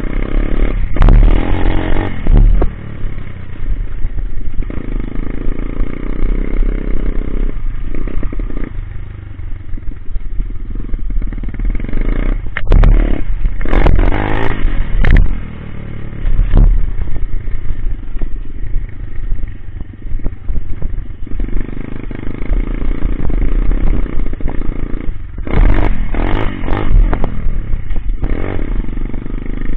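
Coolster 125cc pit bike's single-cylinder engine being ridden, revving up hard three times (near the start, in the middle and near the end) between stretches of steadier running.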